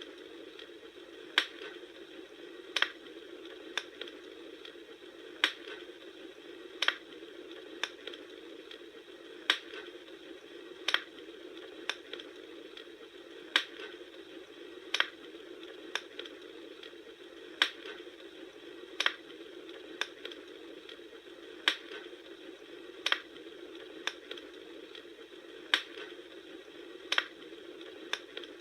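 Crackling fire: sharp pops over a steady soft hiss, coming at an unusually even rhythm of about one pop every second and a half.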